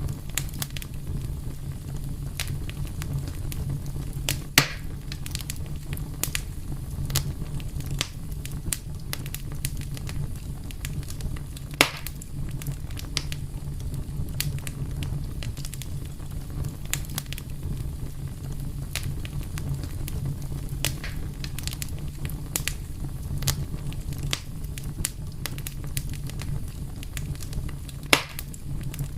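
Wood fire burning with a steady low rumble and frequent irregular crackles, with a few louder sharp pops about four seconds in, near the middle and near the end.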